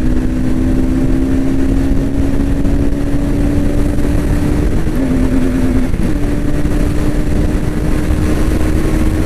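Bajaj Pulsar NS200 BS7's single-cylinder engine running at high revs under a top-speed run, its pitch held steady and creeping slightly upward, wavering briefly about five seconds in. Heavy wind rushes over the microphone throughout.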